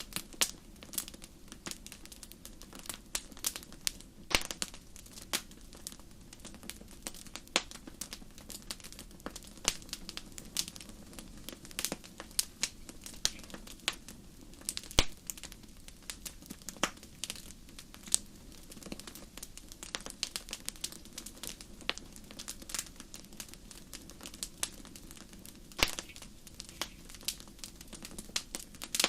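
Wood fire crackling steadily, with dense irregular pops and snaps and a few sharper, louder pops, over a steady low rush of the burning.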